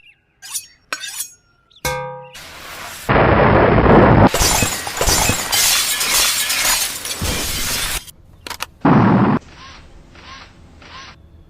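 Layered action-film sound effects: a few sharp clicks and a brief pitched electronic tone, then a loud rush of crashing noise lasting about five seconds, and a shorter loud burst near the end.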